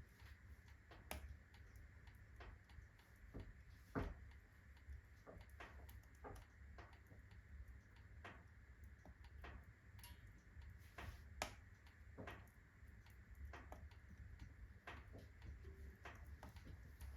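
Wood fire in a fireplace crackling quietly, with scattered irregular pops from the burning logs. Two louder snaps come about 4 seconds in and again near 11 seconds.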